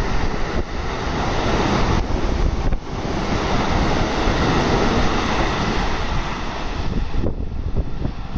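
Electric commuter train running through a station at speed without stopping, a steady rushing of wheels and air close by. The noise drops away about seven seconds in as the last car clears the platform.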